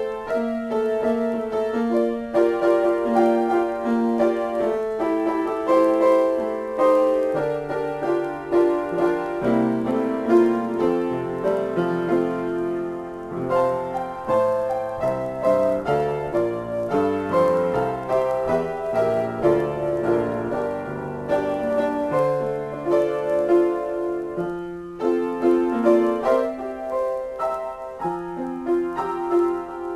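Solo piano improvisation: chords and melody played continuously, with a bass line in the lower register coming in about seven seconds in.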